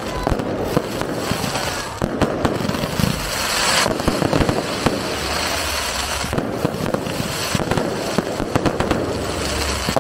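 Fireworks display going off in a continuous dense stream of crackles and pops, with louder sharp reports scattered throughout.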